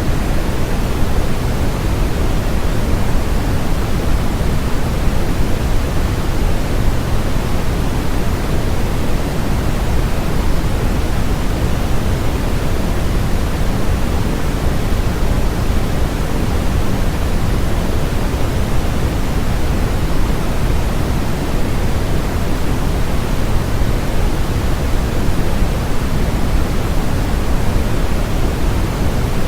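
Continuous synthetic noise sold as white noise: a steady, unchanging hiss that is fuller in the lows than in the highs.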